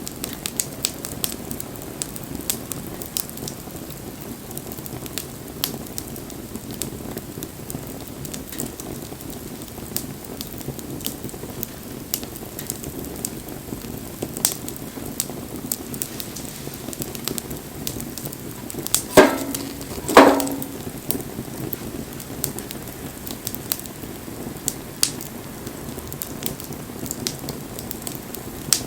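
Wood campfire burning, with a steady hiss and frequent sharp crackles and pops. Two louder knocks, about a second apart, come about two-thirds of the way through.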